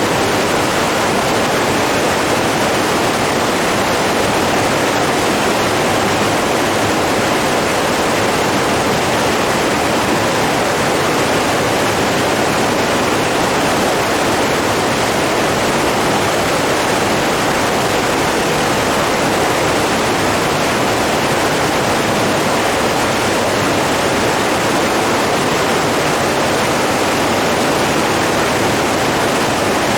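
Running water rushing steadily, an even, unbroken sound that holds the same level throughout.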